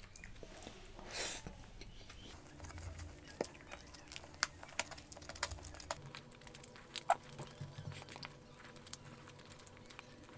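Close-miked chewing and biting of chicken dum biryani eaten by hand: faint, wet mouth clicks and smacks, scattered irregularly, with a few sharper ones.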